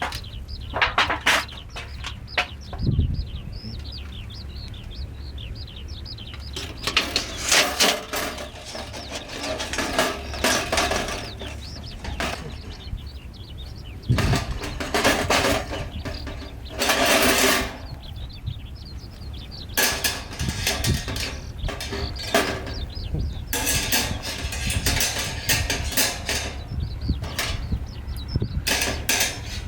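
Intermittent rustling and clattering handling noises, some loud, over a steady low rumble.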